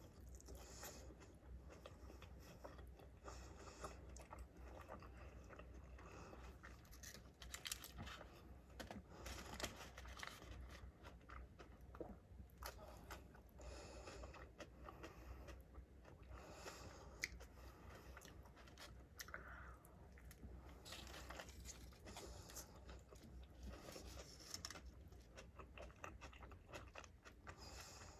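Faint, close-miked chewing and biting of a Five Guys burger: irregular soft crunches and wet mouth clicks, with no pauses.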